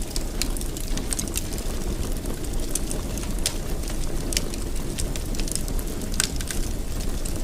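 Fire burning in a fireplace: a steady low rumble of flame with irregular sharp crackles and pops, a handful scattered through.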